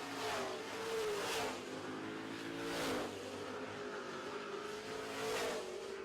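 Racing trucks on a dirt oval running at full throttle, their engine notes rising and falling as several pass close by one after another.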